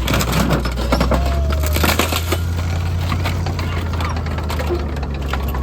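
FV432 armoured personnel carrier's Rolls-Royce K60 multi-fuel engine running steadily, with a burst of sharp cracks and crunches in the first couple of seconds.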